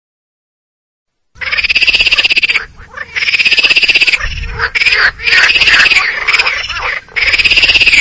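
A squirrel chattering: rapid pulsed calls in about five bursts of roughly a second each, starting after a second or so of silence.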